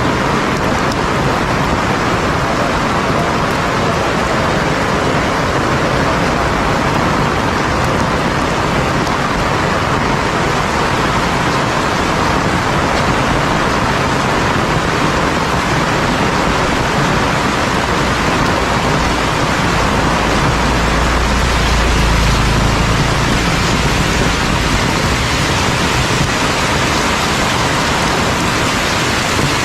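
Heavy rain pouring steadily, an even hiss. A deep rumble swells and fades about twenty seconds in.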